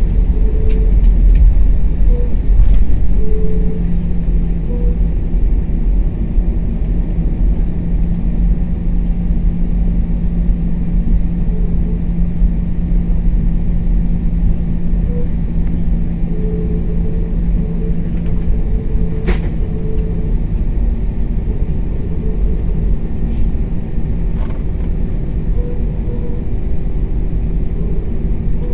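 An airliner's engines running steadily before takeoff, heard inside the passenger cabin as a loud low drone with a few steady hums.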